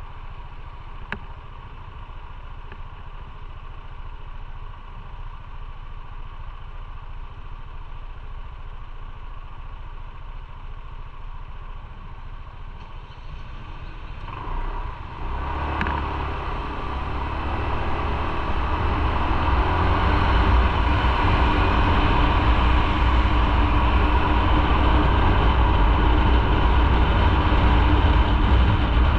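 Motorcycle engine running quietly for about the first half, then getting suddenly louder about halfway through as the bike pulls away, building over a few seconds to steady, loud running.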